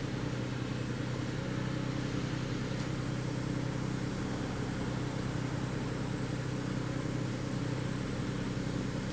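Porsche engine idling steadily at an even, constant pitch.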